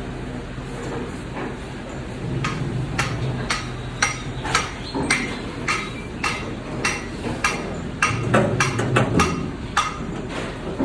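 Repeated sharp knocks, roughly two a second and uneven, starting a couple of seconds in, over a steady low hum of running machinery.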